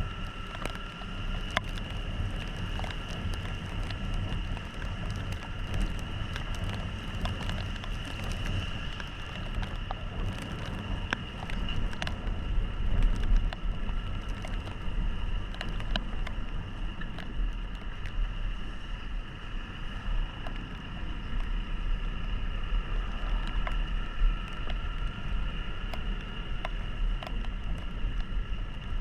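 Small single-cylinder motorcycle engine running while riding on a wet road in the rain, with a steady drone and two steady high whines over it. Many sharp ticks are scattered throughout, and the sound swells briefly about thirteen seconds in.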